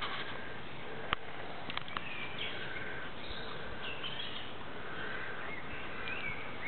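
Wild birds singing outdoors, short chirping phrases scattered through, over a steady hiss. A few sharp clicks, one about a second in and more just before two seconds.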